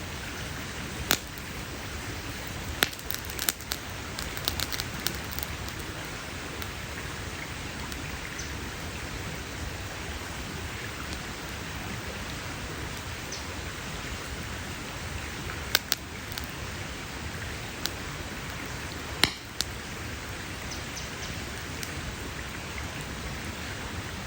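Wood campfire crackling: a steady hiss of burning with scattered sharp pops and snaps, a cluster of them a few seconds in and the loudest single pop about three quarters of the way through.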